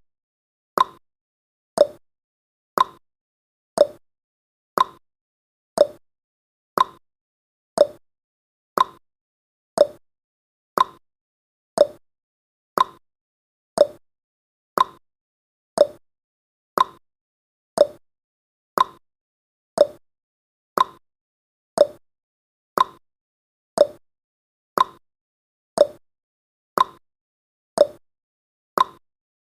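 Clock-style ticking sound effect of a countdown timer, one tick each second, alternating between a higher and a lower tick.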